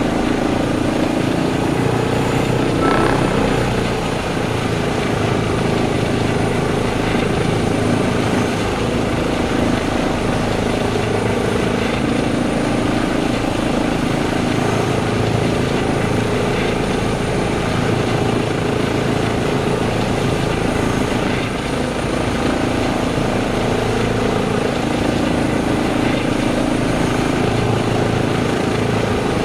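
Eurocopter EC135P2+ helicopter running steadily, its rotor and twin turbine engines at a constant loud level, with a thin high turbine whine above.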